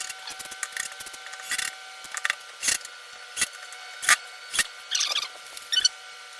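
Irregular short squeaks and clicks, one or two a second, from hand-tool and screw work on the workbench's pre-drilled parts, over a faint steady hum.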